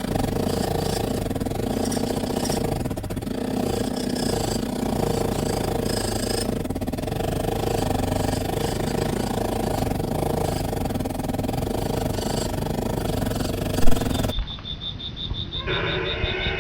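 A motor or engine running steadily, with a sharp loud knock near the end, after which the sound cuts abruptly to something quieter and different.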